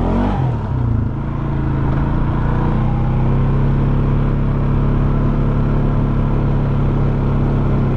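Polaris Sportsman 570 ATV's single-cylinder engine running. Its pitch falls over about the first second as the revs drop, then it runs steady.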